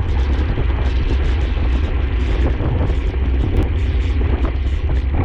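Wind buffeting the microphone of a camera on a racing bicycle at speed: a loud, steady low rumble with uneven gusty flutter over a noisy hiss.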